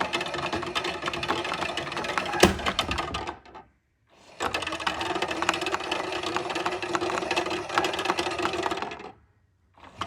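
Toy washing machine's small electric motor running in long bursts, buzzing with a dense rattle of clicks. It cuts out about three and a half seconds in, starts again after a short gap, and cuts out again near the end. A sharp knock sounds a couple of seconds in.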